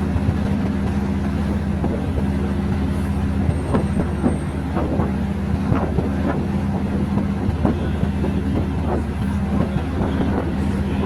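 A moving train: a steady engine drone with irregular knocks and clatter of the wheels on the rails.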